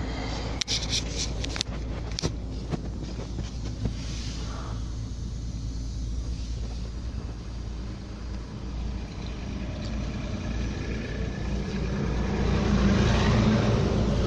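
Semi truck's diesel engine running with a steady low hum, a few sharp clicks in the first few seconds, and the engine getting louder near the end.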